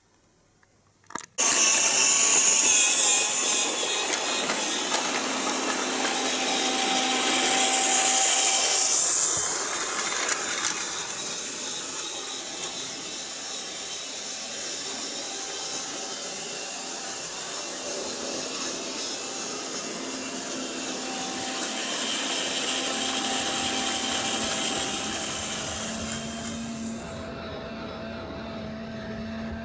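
Model electric train running on its track: a steady motor whir and wheel noise that starts suddenly after a click about a second in, then swells and fades several times.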